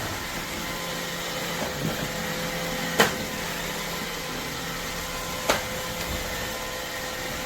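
iRobot Roomba Vac Essential robot vacuum running with a steady motor hum and whine, with two sharp knocks, about three and five and a half seconds in.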